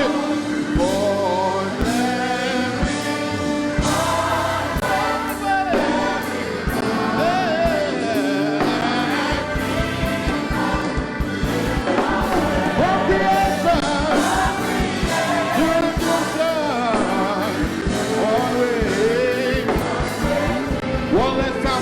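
Gospel worship choir singing with a live band, drums keeping a steady beat under sustained keyboard-like chords.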